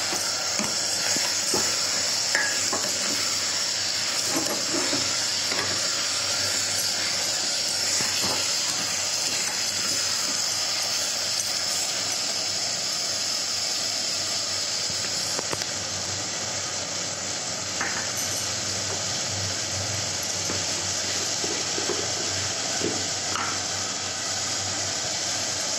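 Mutton keema, fried onions and ginger-garlic paste sizzling in a pressure cooker on a gas flame, with a metal spoon scraping and clicking against the pot as it is stirred.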